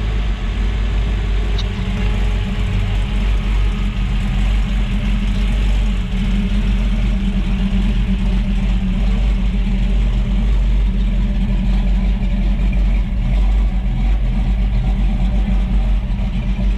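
A car engine running steadily, with a low, even sound and outdoor background noise.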